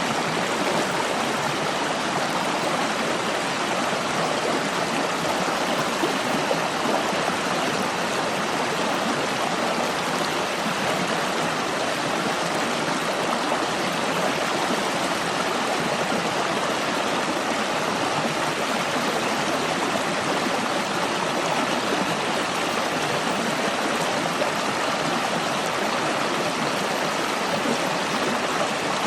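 A stream of water running over rocks, a steady rushing burble.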